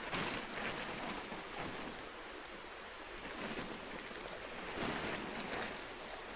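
River water rushing, a steady noise that swells and eases every second or so.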